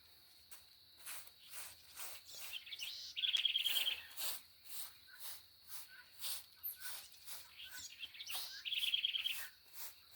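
A small bird singing a rapid trill twice, about three seconds in and again near the end, over a run of short scraping strokes about two a second and a faint steady high whine.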